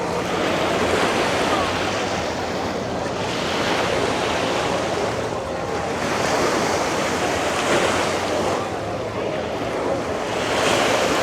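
Ocean surf breaking on the beach, swelling every few seconds, with wind on the microphone and faint voices in the background.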